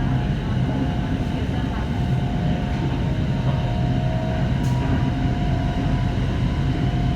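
Hitachi-built Red Line electric commuter train heard from inside the car: a steady low rumble of the running train with a faint, steady whine above it.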